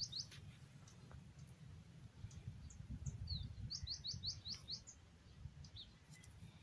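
A small wild bird chirping: scattered short, high, falling chirps, then a quick run of about six chirps a little under four seconds in.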